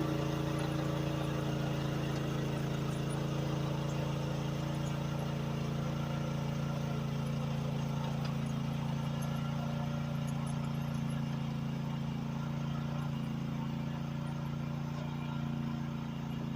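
Chinese mini excavator's engine running at a steady speed while it works a grading bar through dirt.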